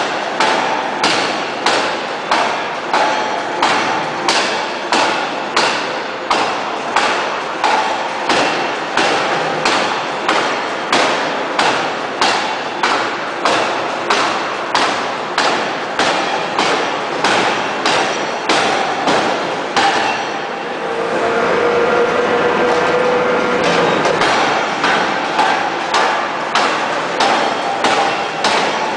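Hydraulic open-die forging hammer striking a steel shaft in a rapid, regular series of heavy blows, about one and a half a second. About two-thirds of the way through, the blows stop for a few seconds, leaving a steady machine noise with a held whine, then start again.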